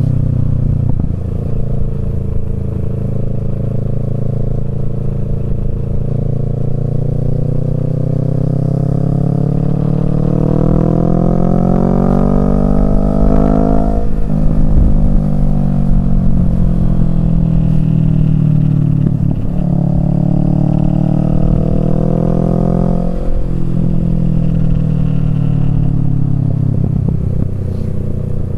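Kawasaki Z650 parallel-twin engine through a Yoshimura Alpha exhaust under way, its note climbing steadily for about ten seconds before dropping sharply at a gear change about 14 s in. Two more quick dips and recoveries in the engine note follow later on.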